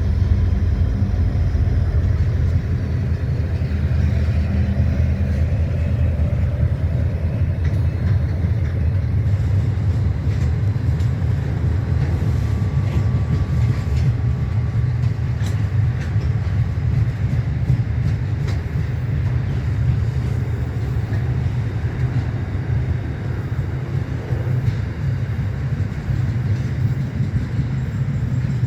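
Train passing at track side: a steady low rumble of wheels on rail and running gear, with a few rail clicks along the way.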